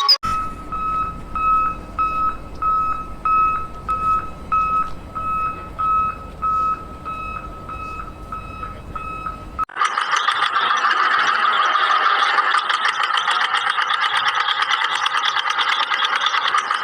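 Vehicle reversing alarm beeping steadily, about one and a half beeps a second, over a low engine rumble. A little under ten seconds in it cuts off suddenly and a louder, rattly engine sound takes over.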